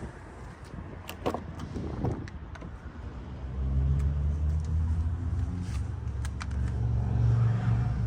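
Audi A8 L's 4.0-litre twin-turbo V8 running with a low drone that swells clearly louder about three and a half seconds in; a few sharp clicks before that.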